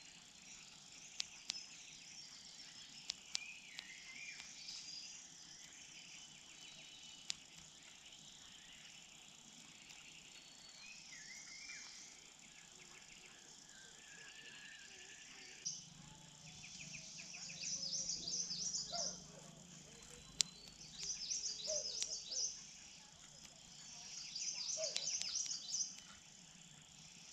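Small birds chirping over faint outdoor background noise, with a few sharp clicks early on. From about two-thirds of the way in, bursts of rapid high chirps come every few seconds.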